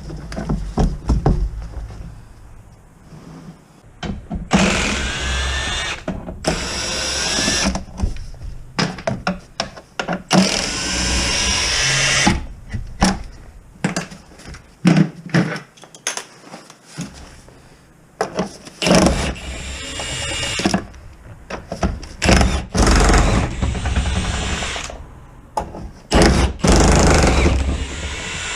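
Cordless power tool spinning fasteners in bursts, two longer runs of about two seconds each early on, then shorter ones, with knocks of hand work in between.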